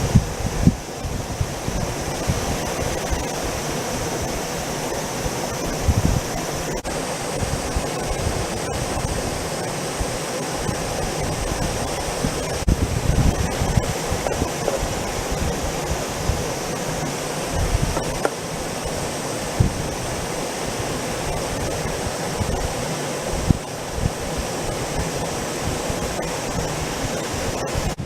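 Steady rushing of a small mountain stream, with wind buffeting the microphone in irregular low gusts.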